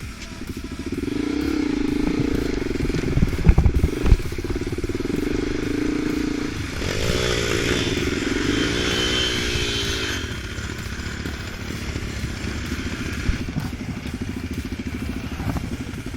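Off-road vehicle engine running steadily, then revving up and down several times between about seven and ten seconds in. A few loud knocks come about three and a half to four seconds in.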